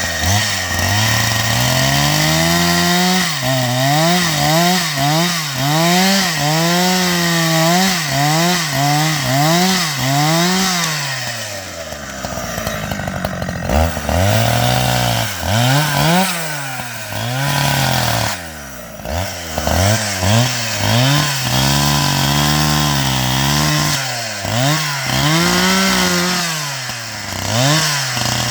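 Chainsaw engine running hard, its pitch rising and falling over and over about once a second as it is throttled while cutting wood. It drops back briefly about halfway through, then revs up again.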